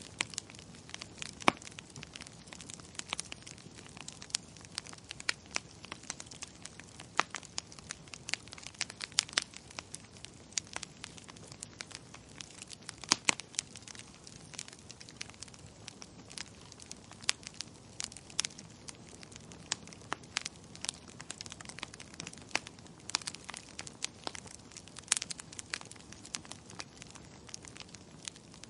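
Campfire crackling: irregular sharp pops and snaps over a faint steady hiss.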